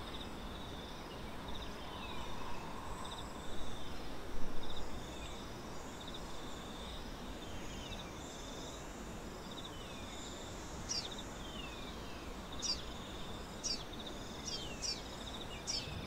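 Outdoor fynbos ambience: a steady, pulsing high insect trill under repeated short falling chirps of small birds. From about eleven seconds in, sharper high bird chirps come more often.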